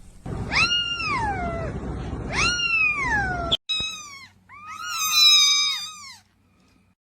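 Kittens meowing in high voices: two long meows that fall away at the end, then a break and a quick run of shorter meows, several overlapping near the end.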